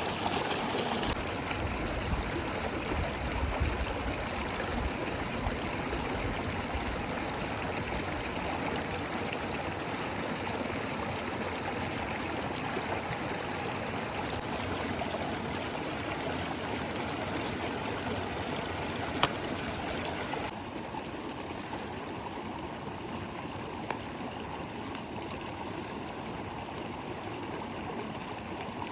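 River water flowing and rushing steadily, with a single sharp click about two-thirds of the way through.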